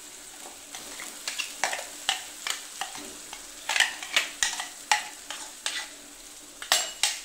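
Ground masala paste sizzling and spattering in hot oil in a non-stick pan: a steady hiss with irregular sharp pops and crackles. Near the end come two louder knocks as a spoon scrapes the rest of the paste out of a metal mixer jar into the pan.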